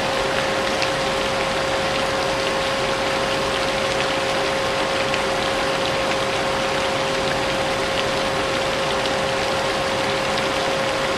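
Vacuum cleaner running steadily, a constant whine over a loud hiss, mixed with falling rain and faint scattered drop ticks.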